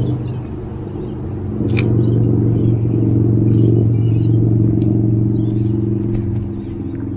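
Steady low drone of a motor, swelling a little about one and a half seconds in, with a single sharp click just after.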